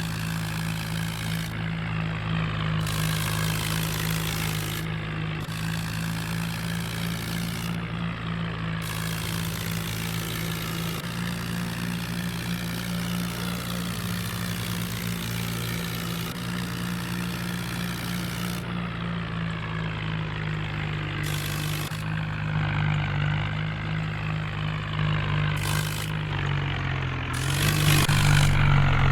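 Swaraj tractor's diesel engine running steadily, growing louder and deeper near the end.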